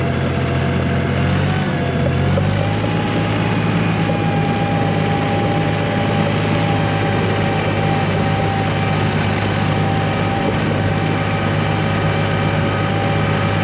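1985 John Deere 1050 tractor's three-cylinder diesel engine running steadily while the tractor pushes snow, with a steady whine above the engine note. The engine note changes about two and a half seconds in.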